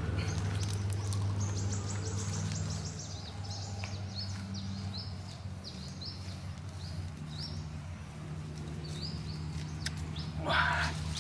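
A bird calling over and over with short, high, falling chirps, over a steady low hum. A brief louder noise comes near the end.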